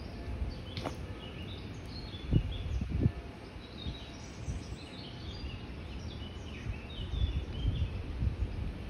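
Small birds chirping and twittering in short high notes, over a low, uneven rumble, with two soft bumps about two and a half and three seconds in.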